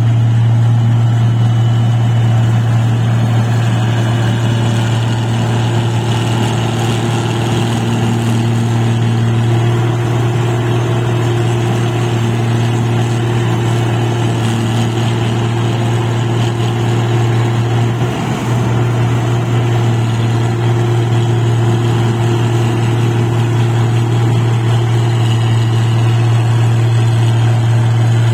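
Engine of a padi (rice) machine running at a steady speed, a constant deep hum with a brief dip about two-thirds of the way through.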